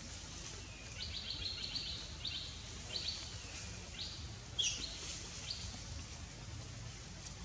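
A bird chirping in a run of short, high-pitched calls, several dropping in pitch at the end, from about a second in until about five and a half seconds. Underneath is a steady low rumble.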